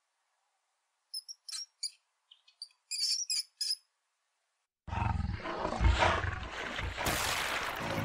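A small rodent gives several short, high squeaks. About five seconds in, a crocodile's loud, rough, low growl takes over.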